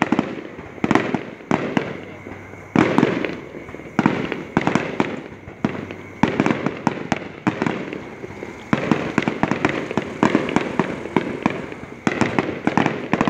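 Aerial fireworks bursting in quick succession: repeated sharp bangs, each followed by crackling, thickening into a dense string of rapid pops about two-thirds of the way in.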